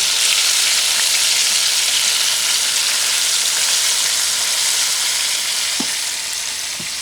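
Chicken pieces frying in hot oil: a steady, loud sizzle, with a couple of light knocks near the end.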